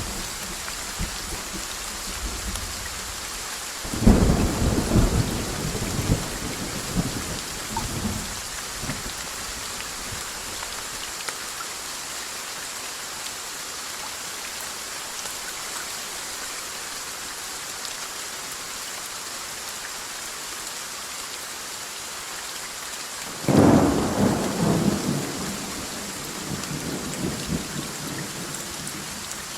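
Steady rain falling, with two peals of thunder. One breaks about four seconds in and the other near the end; each rumbles and rolls away over several seconds.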